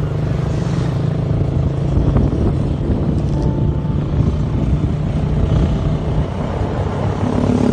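Motorcycle engine running steadily while riding along, with rushing wind noise over it.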